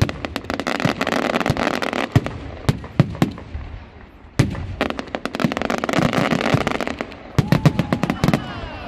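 Fireworks display: many sharp bangs of shells bursting overhead, with two long stretches of dense crackling between them.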